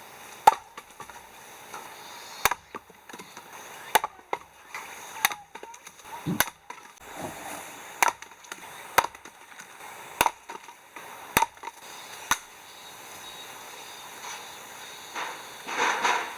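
Firewood being split or chopped by hand with an axe: about ten sharp wooden strikes, roughly a second apart, that stop about three-quarters of the way through. A louder rustling noise follows near the end.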